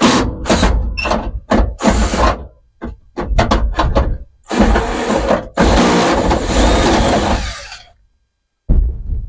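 Power drill run in a series of short bursts and then in two longer runs under load, stopping abruptly near the end.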